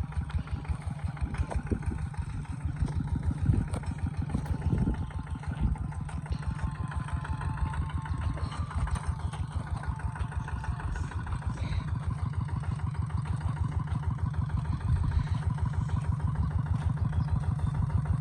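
Kubota ZT140 single-cylinder diesel engine running steadily, with a rapid, even beat of low pulses that grows a little louder in the second half.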